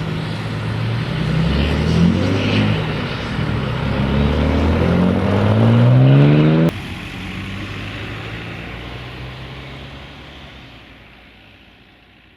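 Electric freight locomotive pulling away, the whine of its traction drive rising steadily in pitch as it gathers speed. About two-thirds of the way through the whine cuts off suddenly, and a low rumble of the train fades away.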